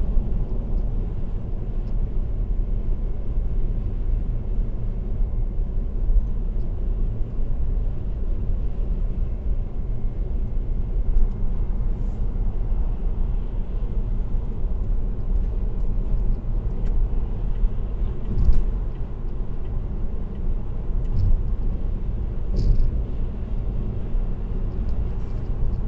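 Steady low road rumble of a car cruising on an expressway: tyre and engine noise with no change in pace, and a few faint ticks here and there.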